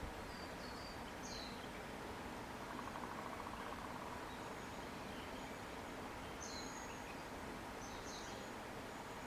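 Outdoor summer nature ambience: a steady low rush under a few short high bird chirps near the start and again around six to eight seconds in, with a brief buzzing insect trill about three seconds in.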